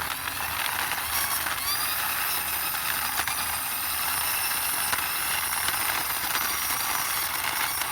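Toy police motorbike pushed along by hand: a steady whir of its small plastic wheels and gears rolling over the surface.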